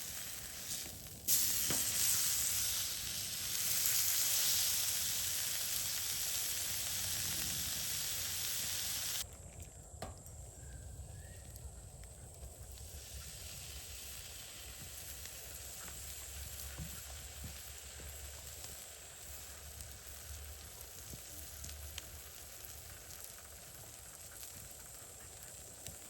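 Food sizzling hard over an open campfire. About nine seconds in it cuts off abruptly, leaving a much quieter fire crackling with scattered small ticks.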